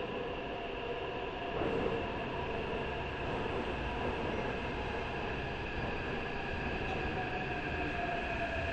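Metro train running: a steady rumble with several steady whining tones over it.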